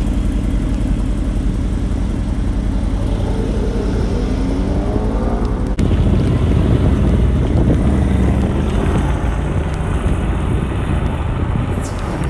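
Mercedes-AMG GT R's 4.0-litre twin-turbo V8 running steadily with a deep, even exhaust rumble, jumping louder after an abrupt break about six seconds in.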